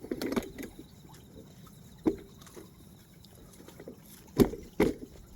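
A few sharp knocks and clatter: a quick cluster at the start, a single knock about two seconds in, and two loud knocks close together near the end.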